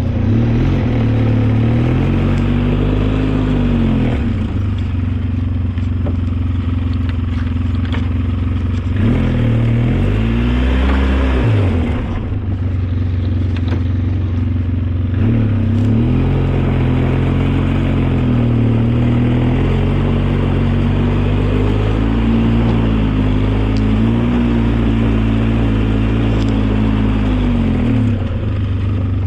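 Engine of a snow-plowing vehicle running steadily, its pitch rising and falling in repeated swells of a couple of seconds as it works.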